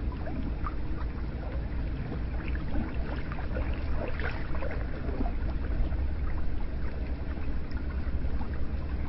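Hot spring water flowing and gurgling into a bath: a steady low wash with many small splashes and drips scattered through it.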